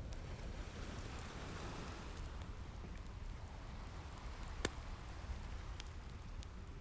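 Fireplace crackling with scattered small pops and one sharper pop about two-thirds of the way through, over a low steady rumble and the soft swell and wash of ocean waves.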